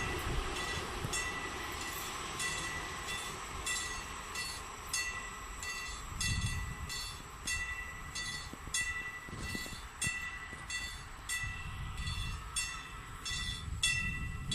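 Train wagons rolling past, their wheels clicking over the rail joints in a quick, uneven rhythm of two to three clicks a second, each click ringing briefly, over a low rumble.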